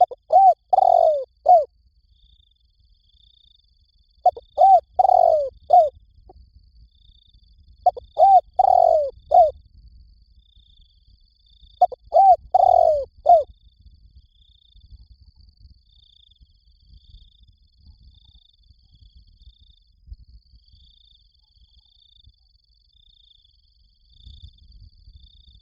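Spotted dove cooing: four phrases of about four coos each, one roughly every four seconds, then a pause of about ten seconds with no calls.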